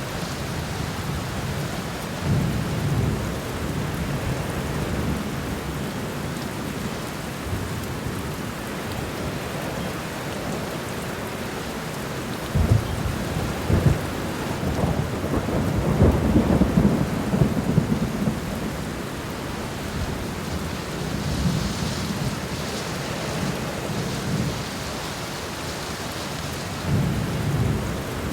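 Steady rain falling on the ground, with low rolls of thunder: a short one a couple of seconds in, a longer one that starts suddenly about halfway through and rumbles on for several seconds, and another near the end.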